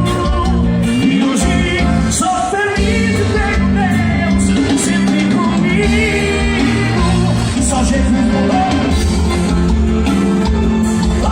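Live band playing an upbeat song, with sung vocals over heavy bass and drums.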